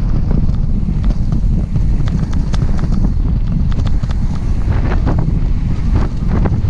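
Wind buffeting the microphone of a moving bike ride, a loud steady rumble, with scattered clicks and rattles from the bike over the trail surface.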